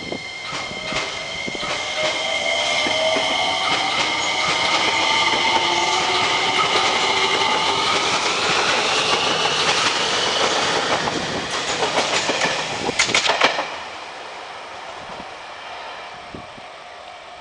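Electric commuter train pulling out of a station: its motors whine, rising in pitch as the train accelerates over about ten seconds. Then comes a quick run of wheel clicks over rail joints, and the sound falls away about fourteen seconds in as the train leaves.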